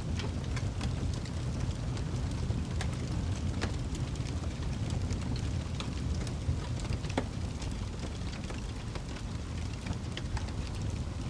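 Wood fire crackling in a fireplace: a steady low rumble of burning with many scattered sharp pops and crackles.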